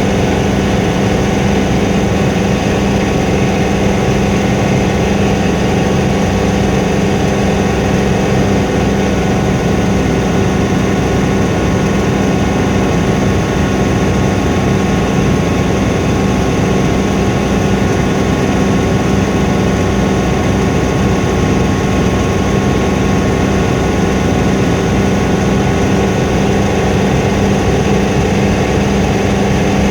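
Helicopter in flight: steady engine and rotor noise, a constant low hum with fainter higher tones over a rushing background.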